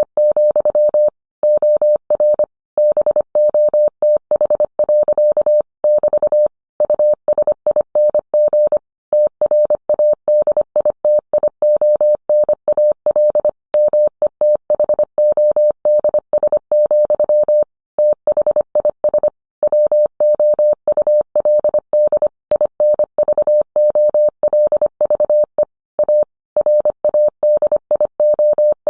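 Morse code sent as a single mid-pitched tone, keyed on and off in rapid short and long beeps with brief gaps between letters and words.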